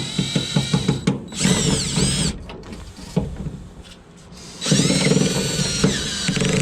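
Cordless drill backing out sheet-metal screws from a furnace vent-motor housing. It runs with a high whine and rapid clicking, winds up and stops, pauses, then runs again for about a second and a half near the end.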